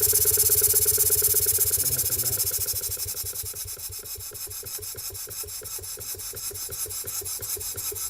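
Small model steam engine with a 1-inch bore and 1¼-inch stroke running fast at about 20 psi, its exhaust beating in a rapid, even rhythm. It grows quieter about three seconds in as the supply pressure is turned down, and keeps running with the same quick beat.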